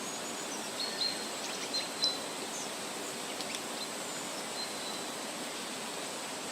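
Steady outdoor background hiss, with a few short, high bird chirps in the first two seconds.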